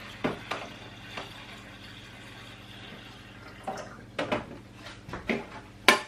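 Filtered water poured steadily from a Brita filter jug, with several light knocks and clicks in the second half. The sharpest knock comes near the end.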